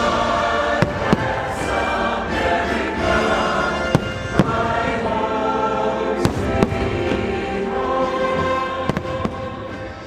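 Fireworks going off in sharp bangs, mostly in pairs every two to three seconds, over patriotic show music with a choir singing sustained chords. The music falls away near the end.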